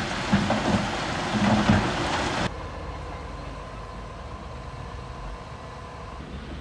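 Heavy construction machinery running: loud and uneven at first with repeated knocks, then cutting off abruptly about two and a half seconds in to a quieter, steady low engine rumble.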